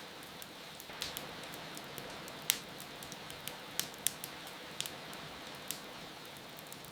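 Steady rain hiss with the irregular sharp crackles and pops of a wood fire, the loudest pop about two and a half seconds in.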